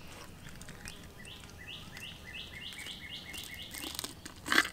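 A small bird singing faintly: a run of about ten short, high chirps that come faster and faster. Near the end there is a brief sharp noise as the fish's guts are pulled out by hand.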